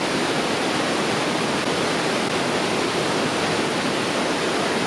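Fast-flowing creek running high after heavy rain: a steady, even rush of water.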